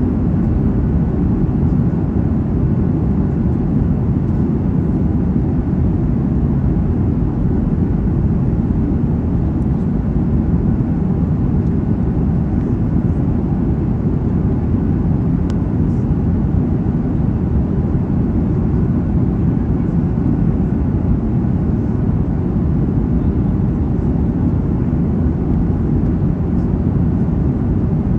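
Jet airliner cabin noise: a steady low rumble of engines and rushing air, heard from inside the passenger cabin.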